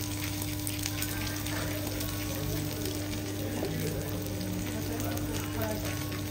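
Wagyu steaks and diced pieces frying on a hot steel teppanyaki griddle, a steady crackling sizzle. A low, even hum runs underneath.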